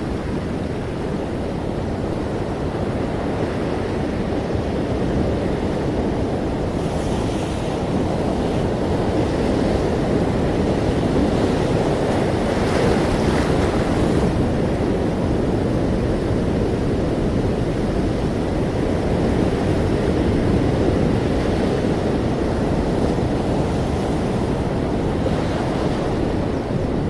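Ocean surf: a steady wash of breaking waves, with the hiss of surging water swelling a little twice.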